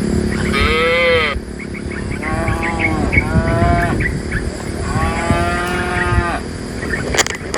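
Cows mooing: several separate moos, each rising and then falling in pitch, the last one the longest. A few sharp knocks follow near the end.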